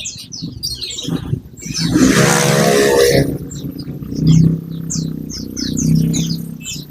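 Songbirds chirping in quick high notes over a loud, low growl-like drone. A harsh rushing noise, the loudest part, comes in about two seconds in and lasts about a second.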